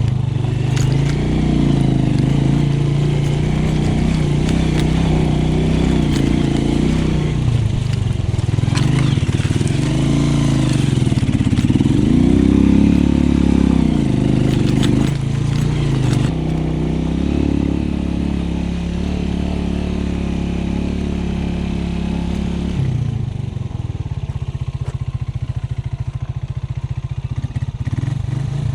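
Small motorcycle engine being ridden, its revs rising and falling again and again as the rider works through the gears. About 23 seconds in, it settles to a lower, quieter, steady run.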